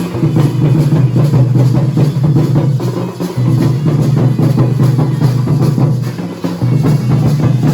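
Dhol and nagada drums played in a fast, dense, continuous rhythm with a strong deep boom; the drumming briefly thins about three seconds in and again near six seconds.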